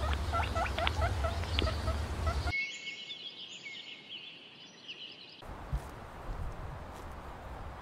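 Birds calling outdoors: a run of short chirps over a low rumble, then, about two and a half seconds in, higher thin bird song with the rumble gone. About five and a half seconds in, this gives way to a fainter, hissy background.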